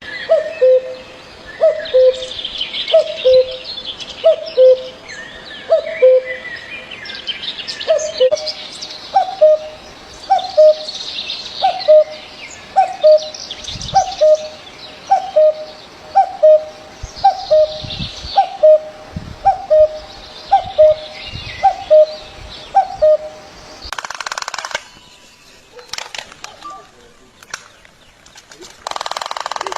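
Birds calling: one bird repeats a low two-note call, a little more than once a second, while other birds chirp and trill higher up. The repeated call stops a few seconds before the end, followed by a short burst of noise.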